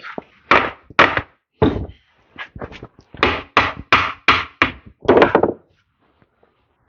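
Repeated hammer blows on the tractor's parts: about ten loud thuds in an uneven rhythm, stopping about a second and a half before the end.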